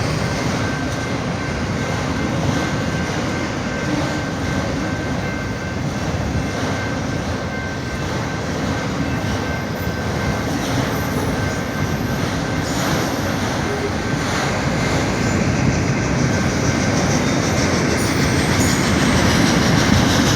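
Norfolk Southern freight train rolling past a road crossing: a steady rumble and clatter of wheels on the rails, with a thin, steady high tone over it for about the first half.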